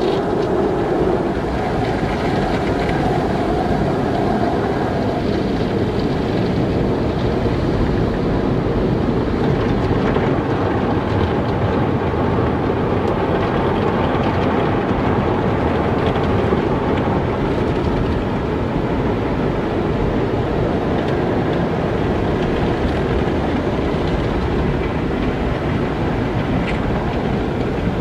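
Car wash running: a loud, steady rush of water spray and machinery, with a faint hum that fades out in the first few seconds.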